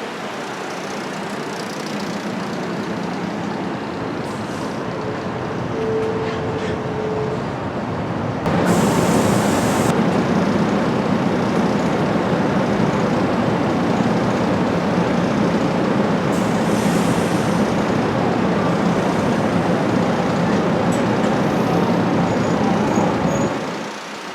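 A train running past close by with a steady rumble that grows much louder about a third of the way in, marked by a short hiss, then drops away shortly before the end. A brief steady tone sounds a few seconds before the loud part.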